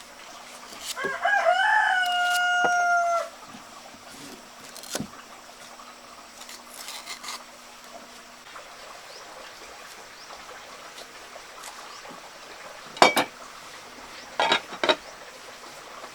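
A rooster crows once near the start, a call that rises briefly and then holds one long note for about two seconds. Later come a few short, sharp knocks.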